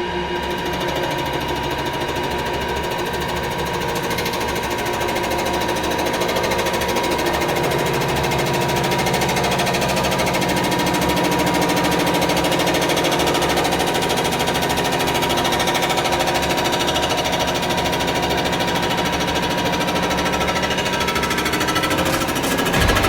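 CNC boring and surfacing machine's spindle running a fly cutter across the deck of a Chevrolet small-block engine block: a steady machine whine over a fast, even chatter of the cut. It gets louder near the end.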